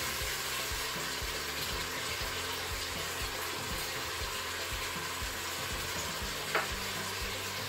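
Sliced chicken breast and garlic sizzling steadily in hot oil in an electric multi-cooker's inner pot on its brown/sauté setting, stirred with a silicone spatula. One brief sharp sound about six and a half seconds in.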